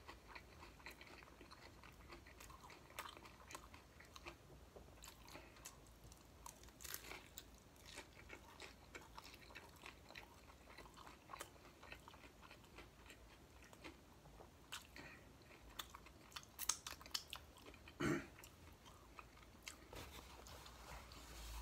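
Close-up chewing of a crunchy fried corn-tortilla chicken taco, heard faintly as a steady run of small crunches and wet mouth clicks, with a louder sound about eighteen seconds in.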